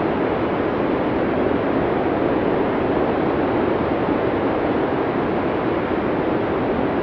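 Arctic blizzard wind from a classic Cinesound effects recording: a steady, dense rush with no gusts, pauses or sudden sounds.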